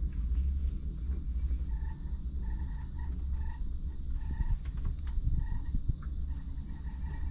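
Steady high-pitched chirring of crickets or similar insects, over a low rumble, with a faint tone repeating about twice a second from about a second and a half in.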